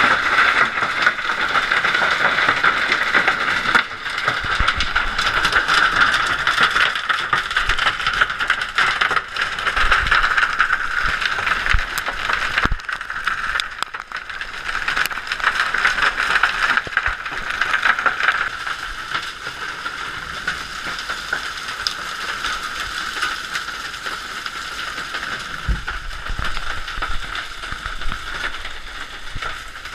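Hailstones pelting hard surfaces in a dense, crackling rattle, with a few heavier knocks among them. The storm eases off somewhat in the last third.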